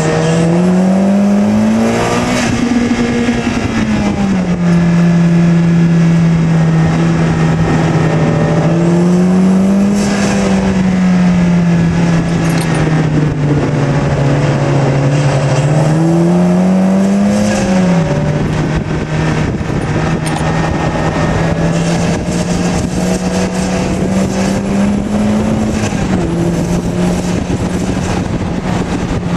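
Turbocharged Mazda MX-5 Miata (NB) four-cylinder engine pulling hard on track, heard from the driver's seat. Its note climbs and falls several times as the driver accelerates and lifts, with a sudden drop about eighteen seconds in, over steady wind and road noise.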